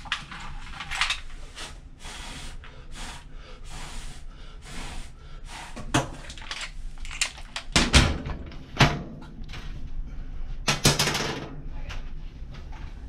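Handling noises: rustling and scraping with several sharp knocks and thumps, the loudest about eight and nine seconds in, and a longer scraping rush about eleven seconds in.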